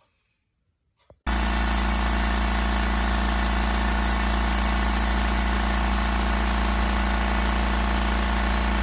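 Oil-less air compressor motor starting abruptly about a second in and running steadily with a loud, even hum.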